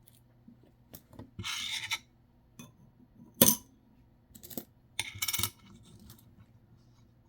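Nickels being handled: coins rubbing and sliding against each other in two short rattling bursts, with scattered light clicks and one sharp click of a coin about three and a half seconds in.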